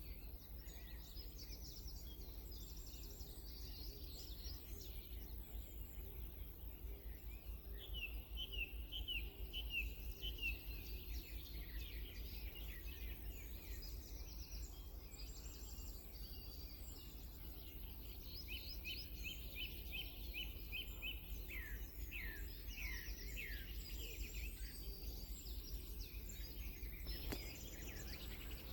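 Songbirds singing: one bird gives a fast run of short falling notes, once about a third of the way in and again past the middle, while other birds chirp and trill higher up throughout, over a steady low background rumble.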